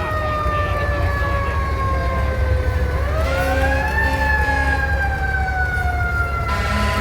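Fire truck siren wailing: its pitch falls slowly, climbs back up about three seconds in, then slowly falls again, over a steady low rumble.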